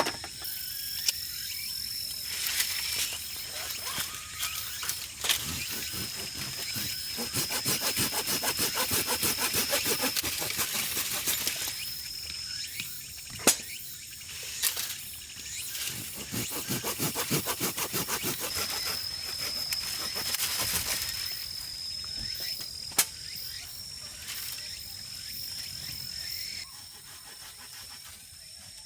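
Crickets trilling steadily at a high pitch, overlaid by two stretches of rapid, rhythmic rasping and a few sharp knocks.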